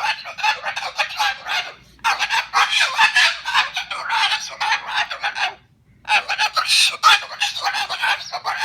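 Moluccan cockatoo calling in long runs of rapid, harsh squawks and chatter, broken by two short pauses, about two and six seconds in: the bird is agitated and angry.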